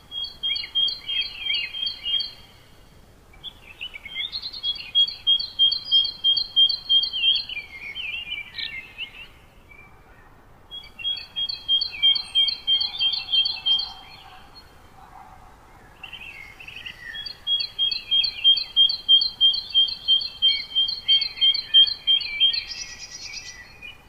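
A songbird singing four bouts of a rapidly repeated, clear high note, about three notes a second, each bout lasting two to six seconds with short pauses between.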